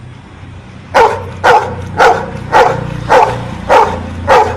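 Pet dog barking in an even run, seven sharp barks about two a second, starting about a second in: it is counting out the number ten on command.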